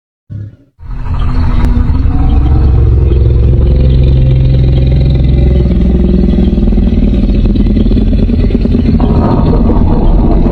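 Spinosaurus sound effect: a loud, long, low rumbling growl that starts just under a second in after a short silence and changes texture about six seconds in and again near nine seconds.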